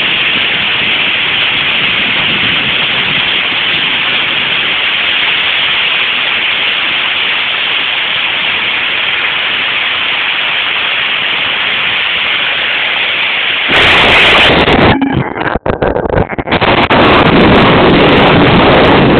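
Heavy rain pouring steadily in a thunderstorm. About 14 seconds in, a sudden loud crack and rumble of thunder overloads the recording, with the sound cutting out briefly a couple of times before the loud rumble goes on.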